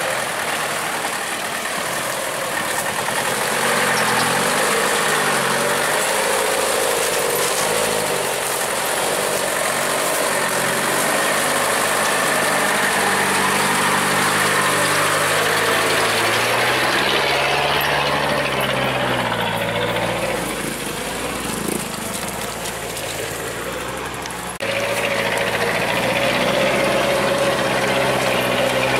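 Truck engine running under load, its pitch rising and falling with the revs. The sound changes abruptly about 25 seconds in.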